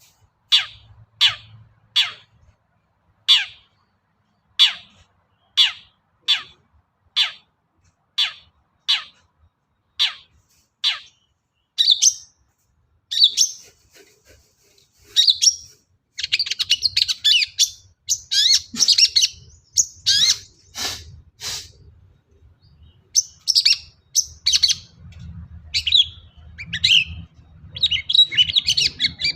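Long-tailed shrike (cendet) singing: first a long series of single sharp down-slurred notes, about one every 0.7 seconds. About halfway through it breaks into a faster, varied chattering song mixed with mimicked phrases.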